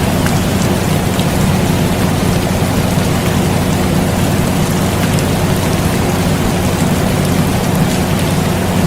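Steady rain noise layered over the constant hum of an air conditioner, with a few faint droplet ticks.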